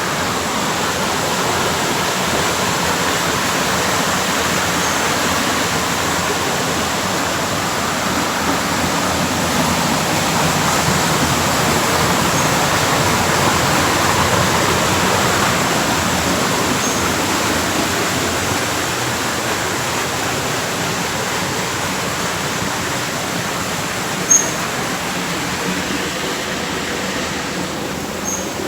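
Creek water flowing and rushing steadily, a continuous loud wash of moving water, with one brief high tick near the end.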